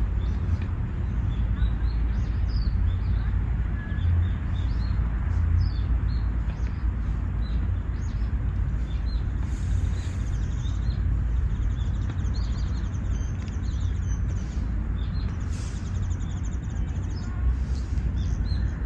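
Park ambience: small birds chirping in short, scattered calls, with a fast high trill in the second half, over a steady low rumble.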